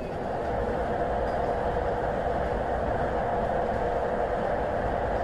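Steady running noise of a passenger train heard from inside the carriage: a continuous rumble and rush of the wheels on the rails.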